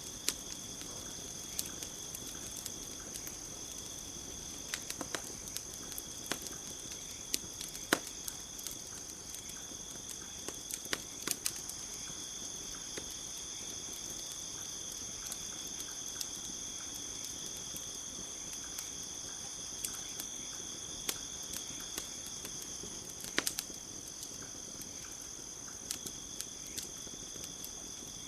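Steady high chirring of night insects, with scattered sharp pops and snaps of a crackling campfire, the loudest about eight seconds in and again near the end.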